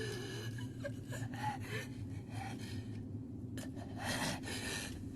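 Strained breathing and gasps over a steady low hum, with a few short voiced whimpers in the first two seconds.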